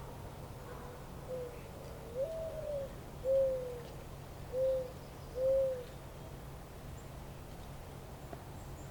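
A bird gives a series of five low hooting coos, about a second apart. The first is faint, the second slides up and back down, and the last three are the loudest. A steady low rumble runs underneath.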